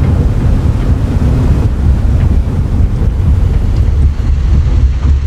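B-29 Superfortress's Wright R-3350 radial engines running steadily at taxi power, a loud low drone with a rough, noisy rumble over it.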